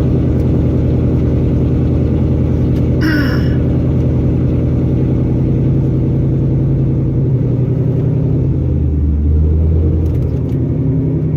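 2015 Ford Mustang GT's 5.0-litre V8 idling, a meaty, steady rumble, with a change in its low note about nine seconds in.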